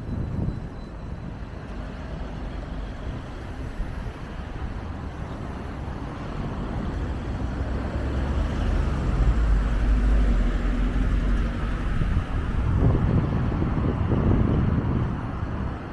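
Street traffic: a motor vehicle's engine grows louder as it approaches and passes. Low wind gusts buffet the microphone near the end.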